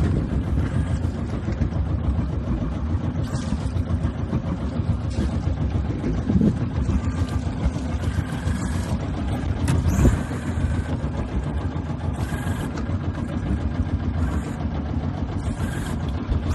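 A sailboat's engine running steadily.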